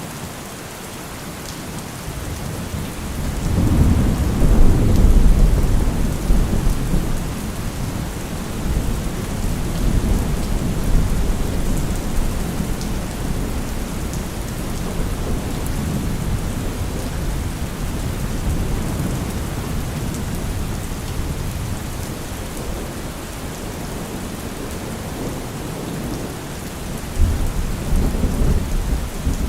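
Steady rain falling, with thunder rumbling: a long low rumble swells about three seconds in and slowly fades, and another comes near the end.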